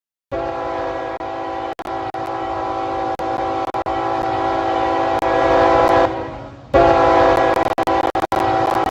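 Freight locomotive air horn sounding a chord in two long blasts: the first about six seconds, trailing off, then after a short gap a second one starting near the end.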